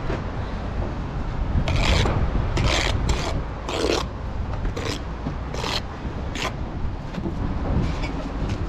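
A steel bricklaying tool scraping through mortar in short strokes, about one a second. Wind buffets the microphone with a steady low rumble underneath.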